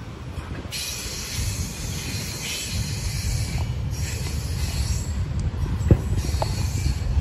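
Norfolk Southern freight train's cars rolling past with a steady low rumble. High-pitched wheel-on-rail noise comes and goes, and there is one sharp clank about six seconds in.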